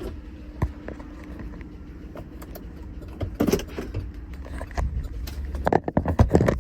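GMC Yukon XL's 5.3-litre V8 running under way, heard from inside the cabin as a steady low drone, with irregular sharp clicks and knocks that bunch together near the end. The engine has a connecting-rod knock, which the driver calls knocking bad.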